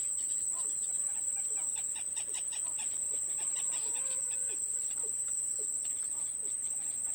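Insects droning steadily at a high pitch, the loudest sound throughout, with faint short bird chirps scattered over it and a quick run of chirps in the middle.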